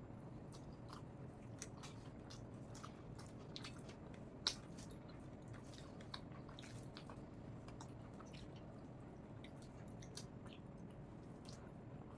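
Close-miked chewing of rice and cooked taro leaves (kochu shak): faint, wet mouth clicks and smacks, with one sharper click about four and a half seconds in.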